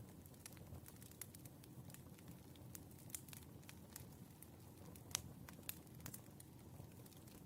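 Wood fire crackling: irregular, scattered pops and snaps over a soft, low rumble of burning logs, with a sharper pop about five seconds in.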